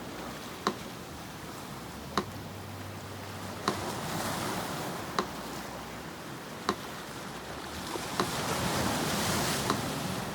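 A metronome ticking slowly and evenly, about one sharp tick every second and a half, seven ticks in all, over the steady wash of sea surf. A wave swells louder near the end.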